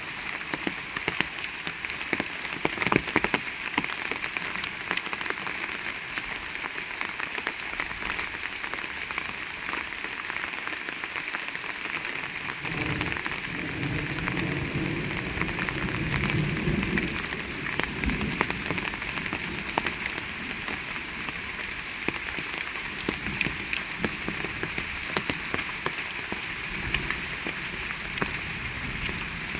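Heavy rain falling steadily, with many sharp individual drop hits. A low rumble swells up between about 13 and 20 seconds in.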